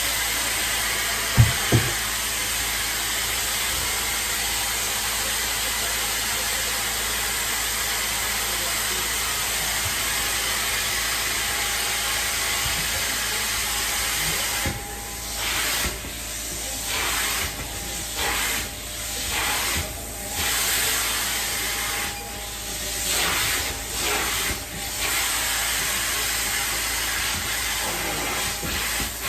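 Hot-water extraction upholstery wand spraying and sucking in a steady loud hiss. From about halfway it breaks into short strokes, the hiss dropping out for a moment between passes. Two sharp knocks come about a second and a half in.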